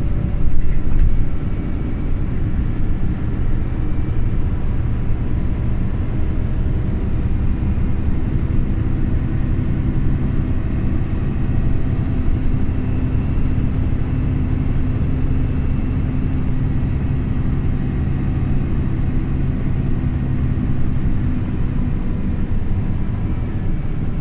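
Scania OmniLink CL94UB city bus running under way, a steady engine and drive noise with a whine through the middle part. There is a single louder knock about a second in.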